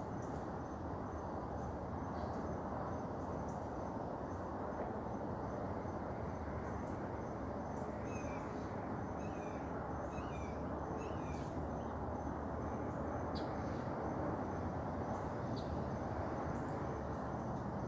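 Outdoor morning ambience: a steady low rush of background noise, with an insect trilling in a thin high tone throughout. A few faint bird chirps come in around the middle.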